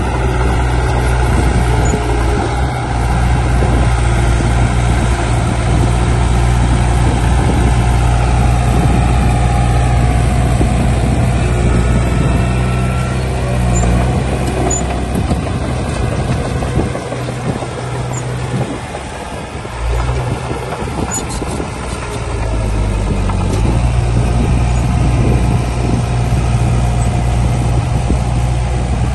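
Heavy diesel earthmoving machinery running under load, a steady low engine drone. The engine eases off for a few seconds past the middle, then picks up again.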